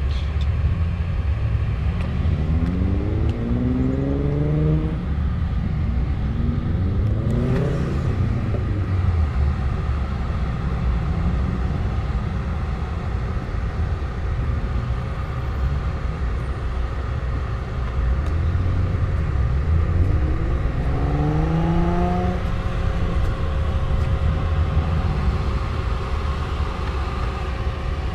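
Motor vehicle engine accelerating twice, its pitch rising each time, over a steady low rumble.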